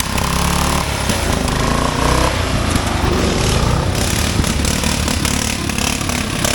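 Racing lawn mower engines running under load. A steady engine note for about the first two seconds gives way to rougher, uneven running.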